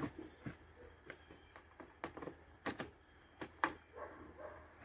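Scattered faint clicks and knocks at irregular intervals, about ten in all, with no engine running; handling noise from readying the Yamaha Kodiak 450 ATV for a cold start.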